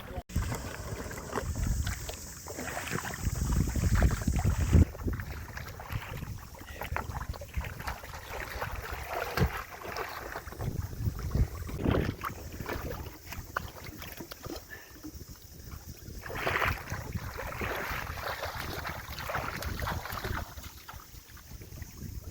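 Wind buffeting the microphone and water around a small boat, with irregular knocks and clunks of gear being handled.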